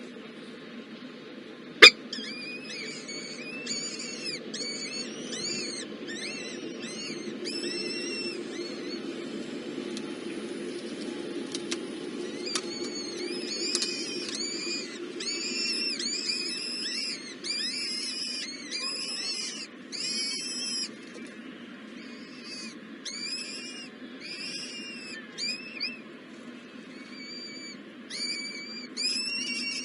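Baby birds in a nest chirping: short, high, arched calls repeated several times a second in runs with brief pauses. A sharp click about two seconds in is the loudest sound, and a steady low hum runs beneath.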